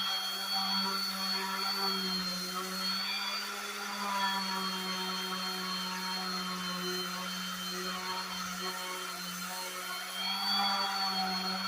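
Electric power sander running steadily on wood, a constant motor hum with a high whine over it, its pitch wavering slightly.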